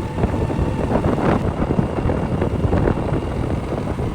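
Wind buffeting the microphone of a moving motorcycle, over steady engine and road noise.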